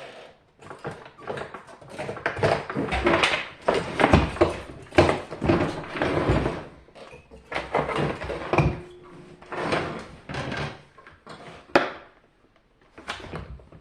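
Parts of a dehumidifier being handled and worked on by hand: irregular knocks, clatters and scraping of its casing and components, with a short steady tone about nine seconds in.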